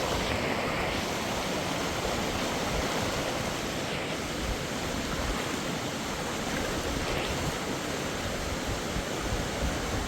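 Waterfall or fast mountain water rushing, a steady dense roar of falling water with some wind on the microphone.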